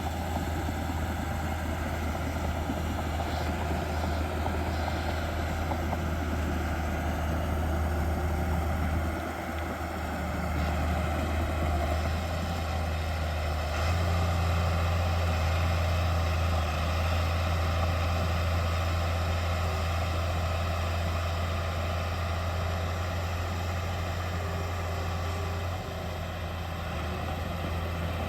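Heavy diesel engine of earthmoving machinery running steadily with a deep low hum. It dips briefly about a third of the way through, then gets louder about halfway and eases slightly near the end.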